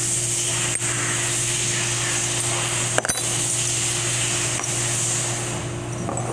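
A steady mechanical hum with a hiss over it that stops a little before the end, and three sharp clicks of metal transmission servo parts being handled.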